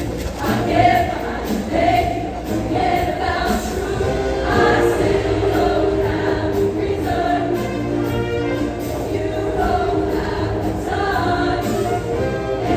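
Show choir singing together in full voice over instrumental accompaniment with a steady bass line.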